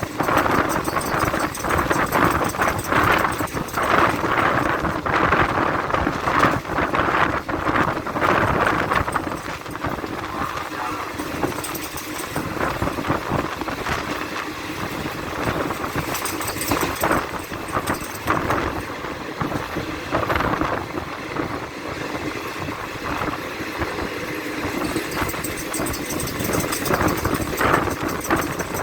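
Passenger train running: a steady rumble with the clatter of wheels on the track, a little quieter through the middle.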